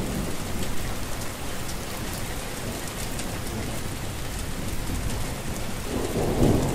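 Steady rain falling: an even hiss with scattered ticks of drops. A low rumble swells near the end.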